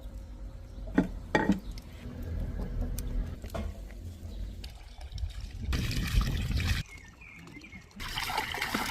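Liquid trickling and pouring in two short spells of about a second each, one near the middle and one near the end, after a few light knocks.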